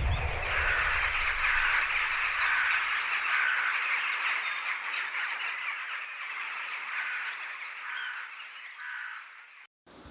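A dense chorus of small animal calls, with a short call repeating roughly once a second through it.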